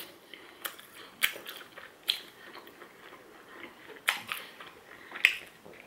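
Chewing of a bite of battered, deep-fried vegetable spring roll: a handful of short, scattered crunches and mouth clicks.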